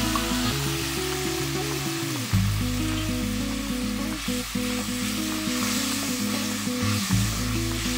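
Curry sizzling in oil in a kadai while a metal ladle stirs it, the masala paste just added to the softened tomatoes and onions. Background music with held low notes plays underneath.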